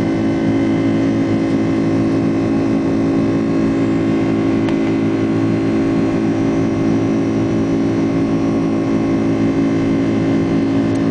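Airliner's jet engines running during takeoff: a steady, unchanging drone with several steady tones in it.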